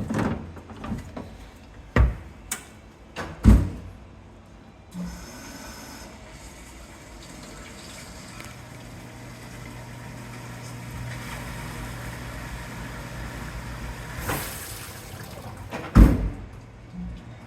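Hobart LXEH undercounter dishwasher: a few sharp clunks in the first few seconds, then the machine runs, water spraying inside over a steady pump hum, with a loud knock near the end.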